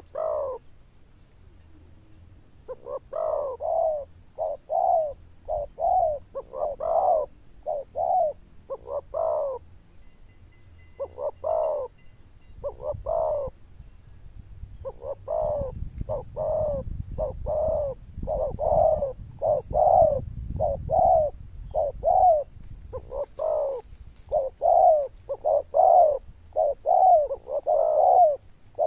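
A caged spotted dove cooing: a long run of short, evenly repeated coos with brief pauses between phrases, a loud, clear-toned coo of the kind kept birds are prized for.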